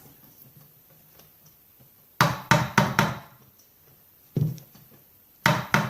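Hard knocks of a tool striking a chainsaw part to work it loose: four quick strikes about two seconds in, a single strike near the middle, then a fast run of about four strikes a second near the end. The part is stiff to come off because of the roller bearing inside it.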